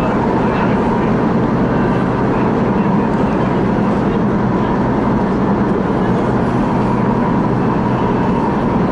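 CRRC Changchun electric multiple unit running on the MTR West Rail Line, heard from inside the car: a steady rumble of wheels on rail with a steady hum and a higher tone held throughout.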